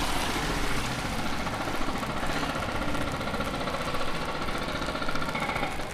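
A motor vehicle engine running steadily over a steady background hiss.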